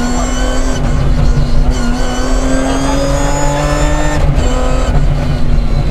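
BMW 325 Group A rally car's straight-six engine running hard under load, heard from inside the cabin. The revs climb steadily and then drop sharply about four seconds in, as at a gear change, before climbing again.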